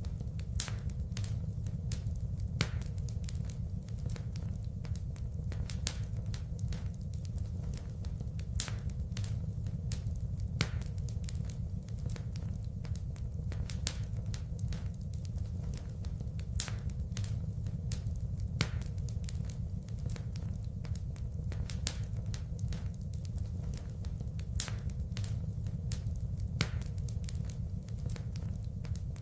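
Wood fire in a fireplace crackling, with frequent sharp pops over a steady low rumble of the flames.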